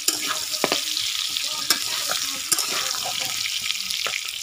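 Potato and papaya pieces sizzling steadily as they fry in oil in a kadai, while a spatula stirs them in. The spatula scrapes the pan and gives a few sharp clicks against it.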